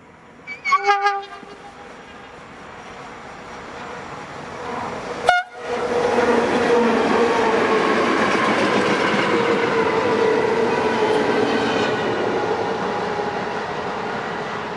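Train horn sounding a few short blasts, then a train approaching and passing close by at speed, with a sharp crack about five seconds in and a long, loud run of wheels and running gear that slowly fades.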